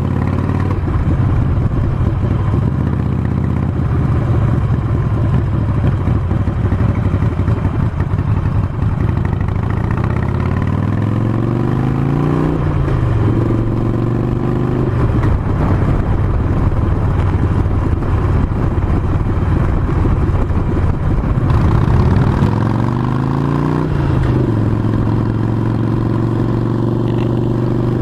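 Harley-Davidson Sportster 48's air-cooled V-twin engine under way on the road. Twice its pitch climbs under acceleration and drops back as a gear is shifted, about halfway through and again near the end; otherwise it runs steadily.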